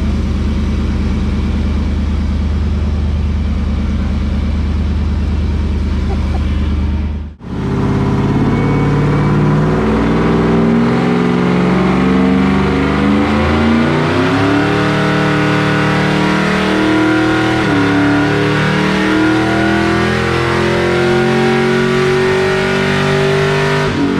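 Whipple-supercharged Ford Lightning V8 on a chassis dyno: running steadily at first, then, after a brief drop-out about a third in, a full-throttle pull whose pitch climbs, falling back twice as the transmission shifts up and rising again to the end.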